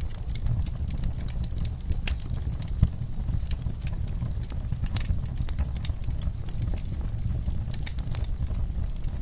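Wood fire crackling in a fireplace: irregular small pops and snaps over a steady low rumble of the flames, with one sharper pop about three seconds in.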